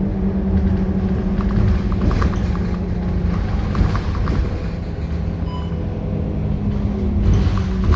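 Scania K230UB bus's diesel engine running under way, a steady drone that drops in pitch about three and a half seconds in and picks up again a second or so later, with light rattles throughout.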